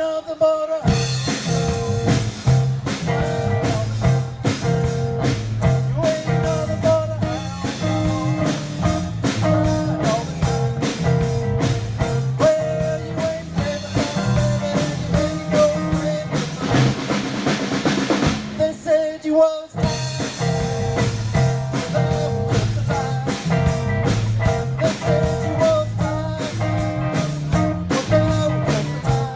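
Live blues-rock band playing instrumentally: electric guitars, bass and a drum kit keeping a steady beat. The band stops for a moment about two-thirds in, then comes straight back in.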